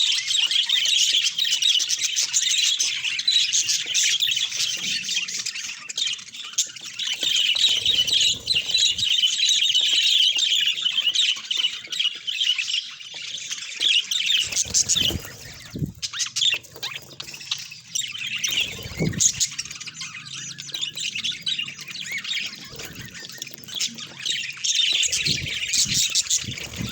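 Budgerigars chattering and chirping together in a dense, unbroken flock chatter, with a few short low thumps in the second half.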